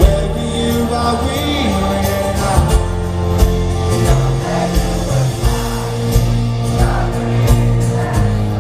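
Live rock band playing at concert volume, with a sung vocal over sustained guitar and keyboard notes.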